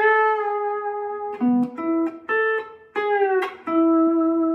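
Lap steel guitar in open G tuning (G B D G B D) picking a short melody phrase of single notes, with the steel bar sliding one note down in pitch about three seconds in, ending on a long held, ringing note.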